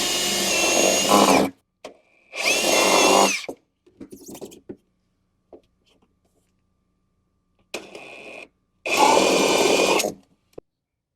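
Electric drill running in three short bursts, its motor whine rising as it spins up and falling as it stops, as it drills a hole through the plastic body of a Power Wheels ride-on car.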